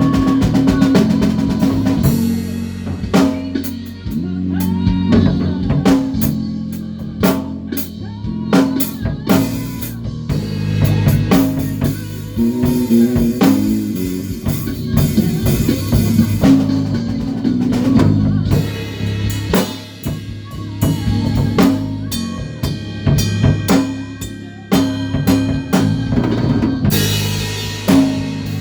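A band playing at rehearsal: a drum kit with busy snare and bass drum hits over a loud, sustained bass line.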